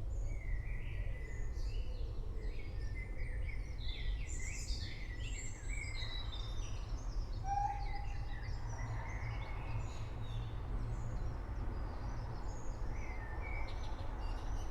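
Several songbirds chirping and calling, short whistled notes overlapping, over a steady low rumble.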